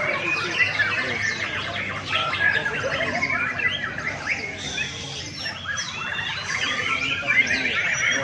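Many caged contest songbirds singing at once: a dense, overlapping chorus of high chirps and trills.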